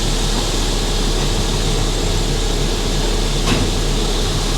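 International dump truck's engine running steadily, heard inside the cab, as the dump bed is lowered after unloading, with a faint click about three and a half seconds in.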